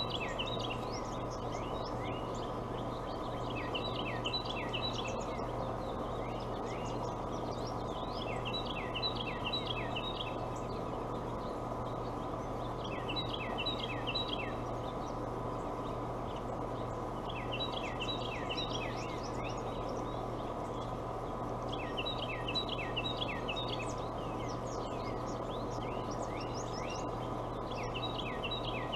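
A bird singing a short phrase of quick falling notes, repeated about every four to five seconds, over a steady hum and hiss.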